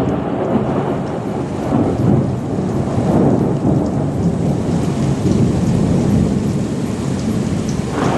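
Thunder rumbling long and deep, rolling on without a break, over steady rain.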